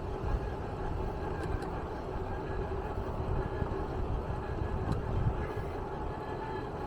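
Steady low rumble of a running vehicle, with a steady hum over it and a couple of faint ticks.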